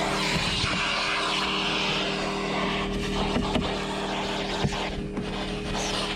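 Vacuum cleaner motor running steadily while a car's carpet and seats are vacuumed. The suction noise shifts as the nozzle moves, with scattered small clicks.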